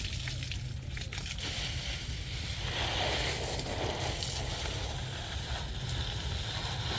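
Water running and splashing as mud is rinsed off, swelling about three seconds in for a second or so, over a steady low rumble.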